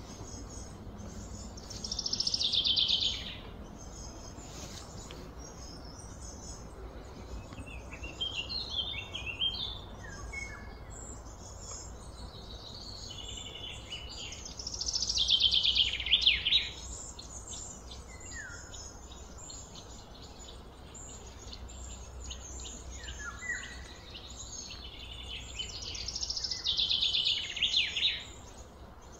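Birds calling. Three loud trilling calls, each about a second and a half long, slide down in pitch and come roughly ten seconds apart. Smaller chirps fall between them, over a steady low background rumble.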